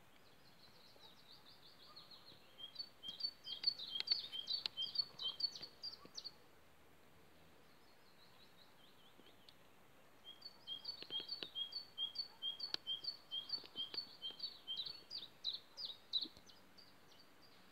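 A small songbird singing two long songs of quick, high, repeated notes, each lasting several seconds. The first runs through the first six seconds; the second starts faintly about nine seconds in and grows louder from about ten seconds, ending shortly before the close.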